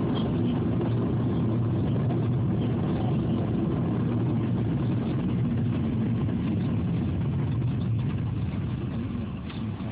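Car engine and road noise heard from inside the cabin while driving: a steady low rumble that eases off somewhat near the end.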